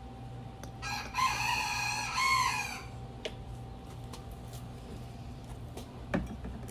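A rooster crowing once, a single call of about two seconds beginning about a second in. A few light knocks follow near the end.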